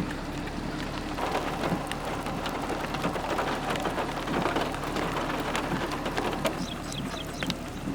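Rain falling during a tornado-producing thunderstorm, with many close drop hits ticking. The drops grow denser about a second in.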